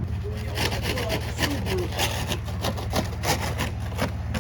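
Rapid, irregular scraping and crunching of packed snow being cleared from around a buried car, over a steady low hum.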